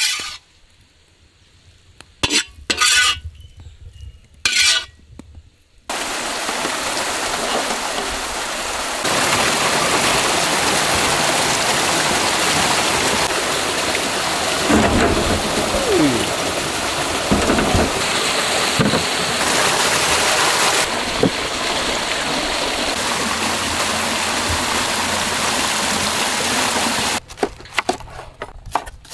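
Hot oil in a large iron wok sizzling in two short bursts, then a long steady hiss that lasts about twenty seconds. Near the end come sharp knife strokes on cutting boards.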